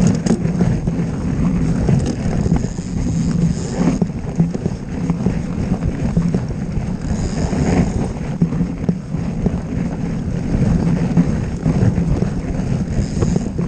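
Wind buffeting a moving camera's microphone: a steady low rumble with a faint hiss over it.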